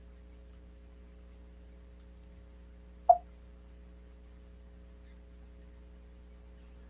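Steady electrical mains hum. A single short, sharp pop or tap about three seconds in.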